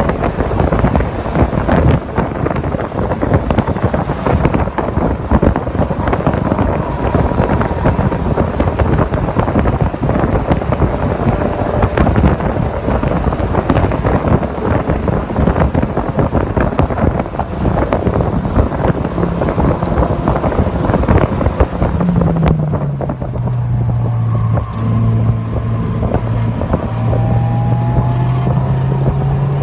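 Mazda MX-5 (NC) on track at speed, its engine buried under heavy wind buffeting on the microphone. About 22 seconds in, the wind eases and a steady low engine drone comes through, with faint rising whines above it.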